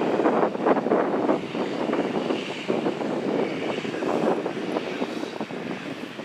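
John Deere 8300 tractor's six-cylinder diesel engine running steadily under load while cultivating, slowly growing fainter. Wind buffets the microphone.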